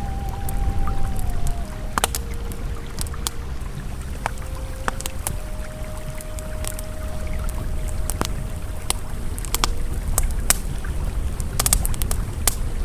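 Campfire crackling, with frequent sharp pops and snaps, over the steady rush of a flowing river. Soft sustained ambient tones hold and shift pitch now and then underneath.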